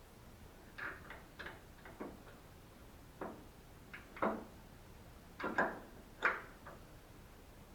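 About a dozen light, irregular clicks and knocks of metal hinge parts and tools being handled while a car door hinge pin and bushings are fitted.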